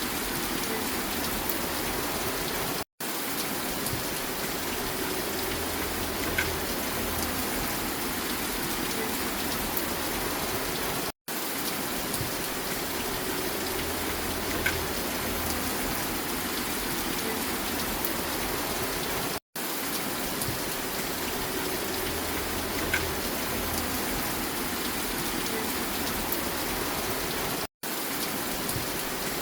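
Steady rain falling, with a few small drop ticks. The sound cuts out for an instant about every eight seconds, and the same stretch of rain repeats each time.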